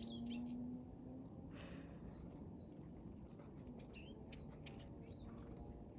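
Birds chirping: many short, high calls and ticks scattered throughout, over a steady low background hum.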